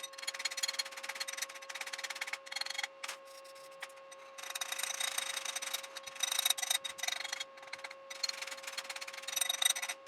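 Stick-welding arc on a 7018 electrode, crackling and sizzling, with a break of about a second and a half a few seconds in and a few short breaks near the end. A steady hum runs underneath.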